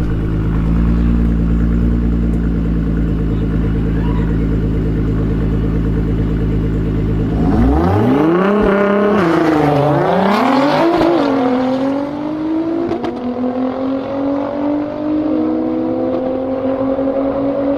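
Straight-piped Nissan R35 GT-R twin-turbo V6 held at steady revs on launch control for about seven seconds, then launching. The revs climb and drop through several quick gear shifts, and the note keeps rising slowly as the car pulls away.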